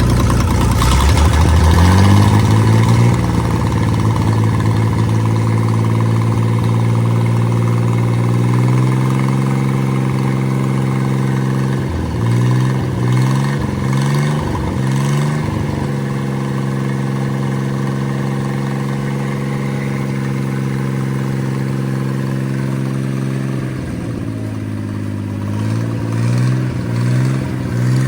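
Freshly rebuilt Chris-Craft Model W marine six-cylinder engine (a marinized Hercules WXLD, bored .060 over), fully warmed up on test fire. It runs steadily and is brought up in revs in two steps early on, then blipped on the throttle several times around the middle and again near the end.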